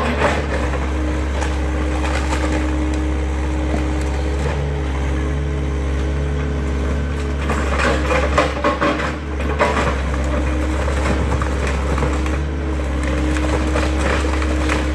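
Excavator engine running steadily while debris crunches and knocks, with a cluster of sharp cracks and thuds around the middle.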